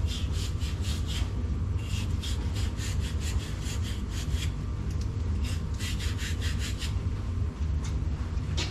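Quick back-and-forth strokes of a hand saw, in runs of several strokes a second with short pauses between runs, over a steady low rumble.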